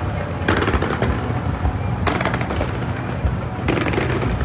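Fireworks going off in rapid crackling volleys, three bursts of fast cracks about a second and a half apart, over a steady low background rumble.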